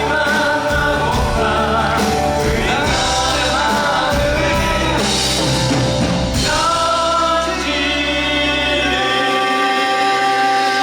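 Cast of a stage musical singing a Korean ballad together with a live band. The voices settle into long held notes in the second half, and the bass drops out near the end.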